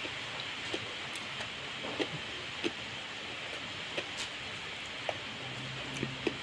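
Steady hiss of rain falling, with a few faint clicks from eating papaya salad and noodles by hand close to the microphone, and a brief low hum near the end.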